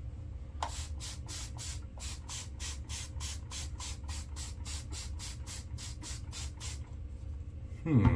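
Wet hands rubbing water over a freshly shaved face in quick, even strokes, about four a second, to reactivate the menthol cooling left by the shaving soaps. A brief voice sound from the shaver comes right at the end.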